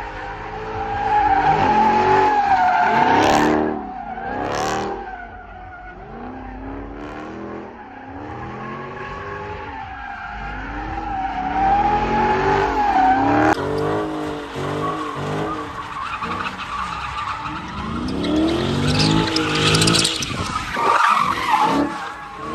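A car engine revving hard up and down again and again while the tires squeal in a long slide, loudest in three surges.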